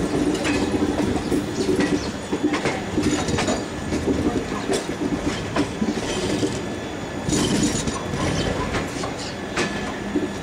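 Passenger train coach rolling slowly through a station, its wheels clacking irregularly over rail joints under a steady rumble. A brief high-pitched screech comes about seven seconds in.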